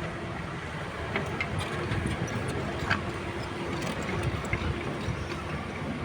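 Caterpillar 306E2 mini excavator's diesel engine running steadily, with a few light clinks scattered through.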